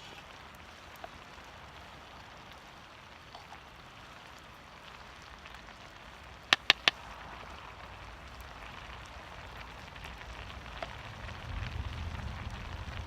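Small wood fire in a folding Firebox stove crackling with a steady soft hiss, with three sharp snaps in quick succession about six and a half seconds in. A low rumble rises near the end.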